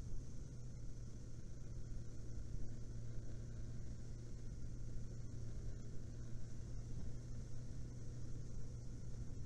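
Sport motorcycle engine running at steady revs, its hum holding one even pitch throughout, under a steady rush of noise.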